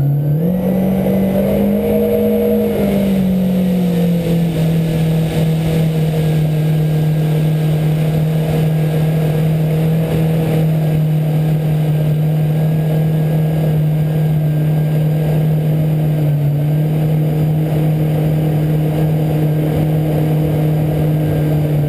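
Yamaha VX 110 four-stroke jet ski engine pulling away. It rises in pitch over the first couple of seconds, eases back slightly, then runs steady at trolling speed, around 4,500 RPM.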